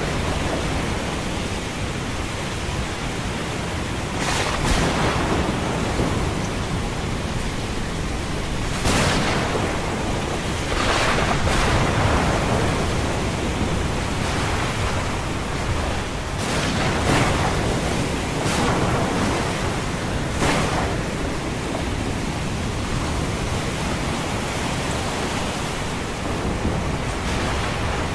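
Ocean surf and a rainy thunderstorm mixed into one steady rushing noise, with several brief louder surges through it.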